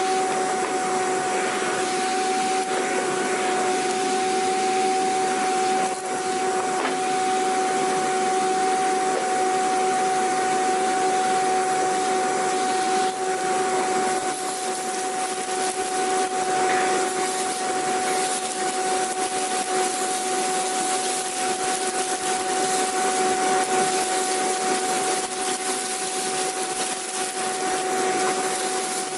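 Vacuum cleaner running steadily: a continuous whooshing air noise over a constant motor whine.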